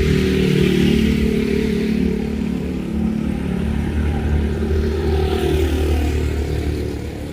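An engine running steadily with a low hum, over a fainter hiss.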